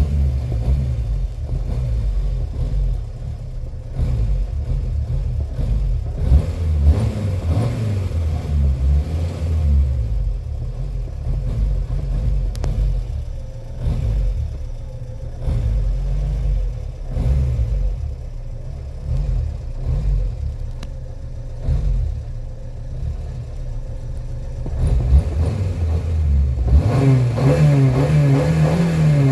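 Renault 4's four-cylinder petrol engine running rough and uneven while flooded, worked with the gas pedal, then revved up and back down near the end.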